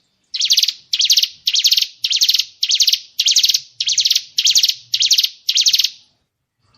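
A songbird's 'tembakan' call, the burst-like phrase used as fill-in training material for white-rumped shamas (murai batu): about ten identical high, fast-rattling notes in an even row, a little under two a second, stopping about six seconds in.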